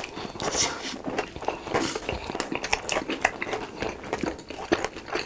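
Close-miked chewing and crunching of crispy fried food: a dense, irregular run of crackly bites and chews.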